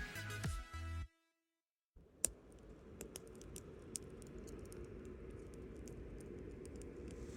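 Background music ends about a second in, followed by a brief dead silence. Then a wood campfire crackles, with scattered sharp pops over a low, steady rush.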